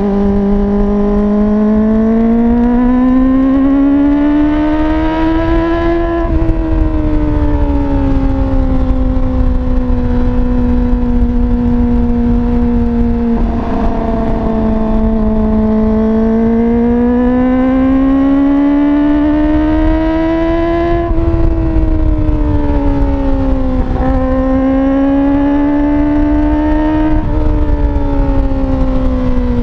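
Kawasaki ZX-25R's 250 cc inline-four running loud through a slip-on exhaust with no dB killer. Its pitch climbs steadily, then drops sharply about six seconds in and again about two-thirds of the way through, with two short dips near the end.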